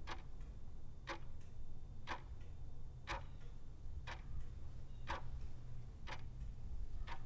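Clock ticking evenly once a second, eight ticks, over a steady low hum.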